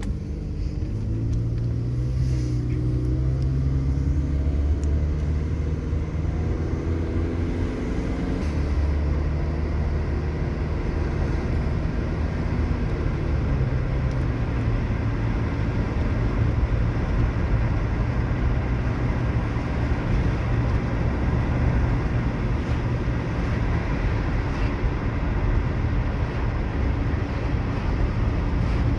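2008 Toyota Camry driving. Its engine note rises and drops several times in the first fifteen seconds as it goes through the gears, then settles into steady cruising with road noise. The engine runs clean, its misfire cured by new spark plugs and an ignition coil.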